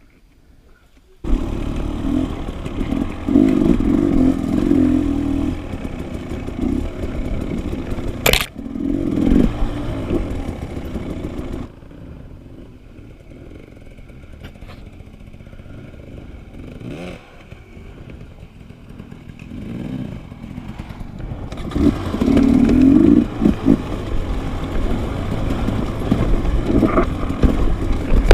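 Dirt bike engine running as it is ridden off-road, the throttle opening and easing, with one sharp knock about eight seconds in. It goes much quieter for several seconds in the middle, then picks up again near the end.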